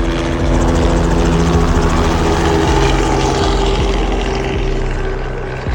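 Helicopter running, a steady drone of engine and rotor.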